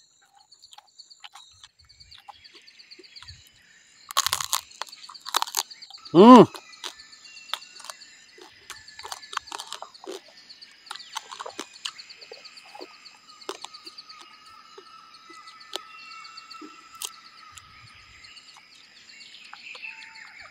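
Close-up chewing and crunching of charred grilled rat meat: a run of small wet clicks and crackles, with a louder burst of crunching about four seconds in and one short, loud voiced sound about six seconds in. Insects trill steadily and high-pitched throughout.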